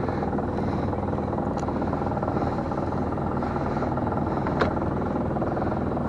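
Small fishing boat's engine running steadily. A single sharp knock comes about four and a half seconds in.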